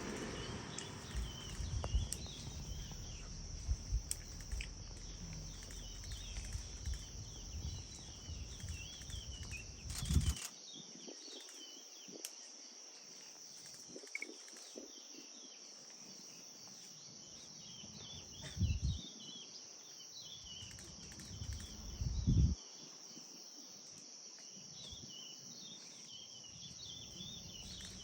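Rainforest night ambience: a steady high-pitched insect drone with many small chirping calls over it. There are a few dull knocks and low rumble in the first part, and two brief thumps later on.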